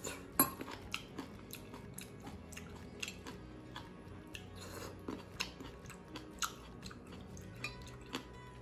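Close chewing and crunching of salad, with sharp clicks of a metal fork against ceramic dishes scattered throughout, the loudest about half a second in.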